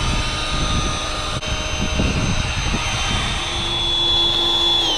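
DJI Mavic Mini quadcopter's propellers whining at a steady pitch, with wind rumbling on the microphone; the whine drops in pitch near the end as the motors slow.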